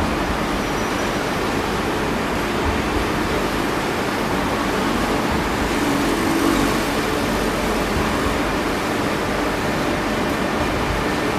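Renfe AVE high-speed train, a Talgo-built Class 102/112 set, rolling slowly past along the platform. It gives a steady rumble of wheels and running gear with a faint low hum.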